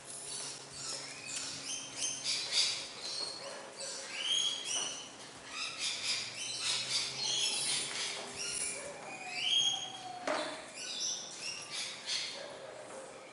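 Birds chirping and calling, many short overlapping notes with a few rising whistles.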